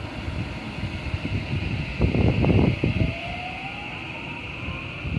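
JR West 223 series 1000 electric train pulling away: a low rumble with a cluster of wheel knocks about two seconds in, then the thin whine of its traction motors rising in pitch as it gathers speed.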